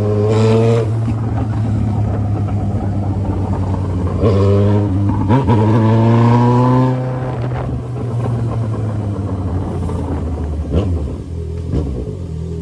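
Yamaha XJ6's inline-four engine through a 3-inch exhaust pipe, accelerating hard. Its pitch climbs until about a second in and again from about four to seven seconds in. After that it eases off and the level drops.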